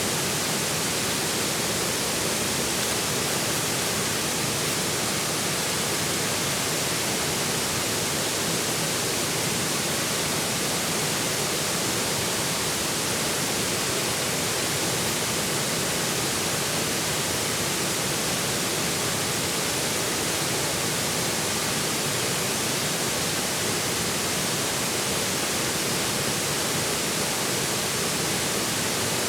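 Forest river flowing steadily: an even, unbroken rush of water with no separate splashes or changes.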